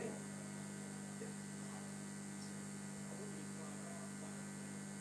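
Steady electrical mains hum and buzz from a live sound system's amplifiers, idling with no music playing.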